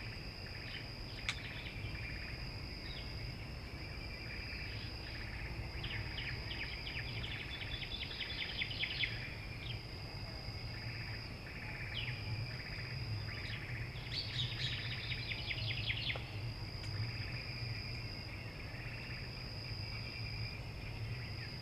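Outdoor insect chorus: a steady high-pitched trill that breaks off now and then, joined twice by a few seconds of rapid chirping. A low steady hum runs underneath.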